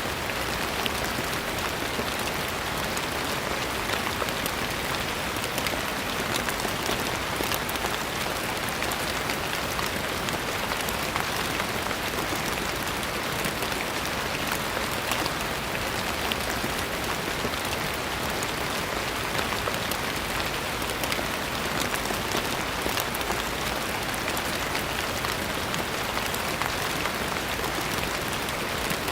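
Gentle rain falling steadily: an even hiss with scattered faint drop clicks, unchanging throughout.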